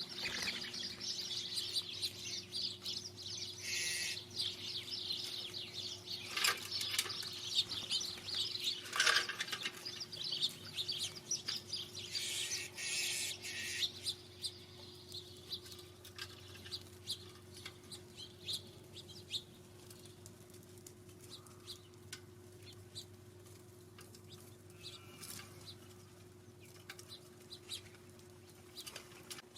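Small feeder birds chirping in a dense, overlapping chatter that thins to scattered single chirps about halfway through.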